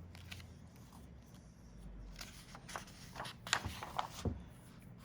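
Rustling and a few light clicks and knocks as a picture book is handled and a page turned.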